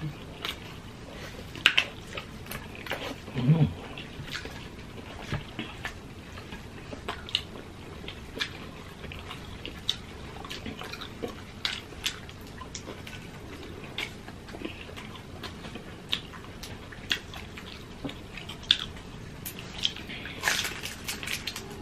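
People eating with their hands and chewing close to the microphone: scattered wet smacking and clicking mouth sounds, with a denser crunchy burst near the end as a fried spring roll is bitten into.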